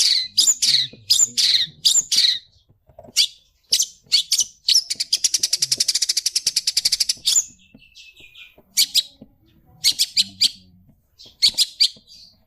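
Long-tailed shrike singing: a run of sharp, high chirps and whistled phrases, with a fast, even trill from about five to seven seconds in. Its song carries imitations of the yellow-vented bulbul.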